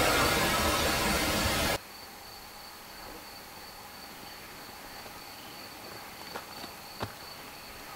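A loud hiss cuts off suddenly about two seconds in. After it, a cricket's steady high trill carries over a quiet night background, with two small clicks near the end.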